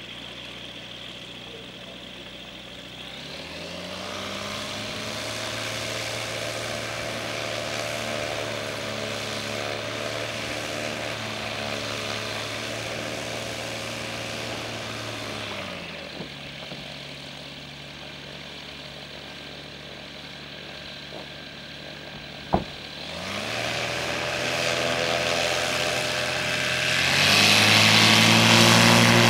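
Light aircraft's piston engine and propeller running at idle, then throttled up a few seconds in and held, throttled back to idle past the middle, and opened up again in two steps, loudest near the end. A single sharp knock comes shortly before it opens up again.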